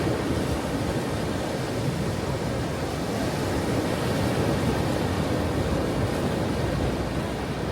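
Ocean surf: a steady, low rush of waves washing ashore, with no single break standing out.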